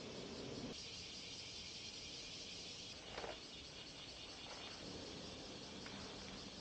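Faint, steady, high-pitched drone of insects, with one short passing sound about three seconds in.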